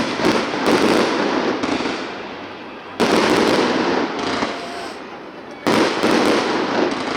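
Aerial fireworks bursting overhead: sudden booms at the start, about three seconds in and near the end, each fading away in a long rumble, with a few smaller cracks after the first.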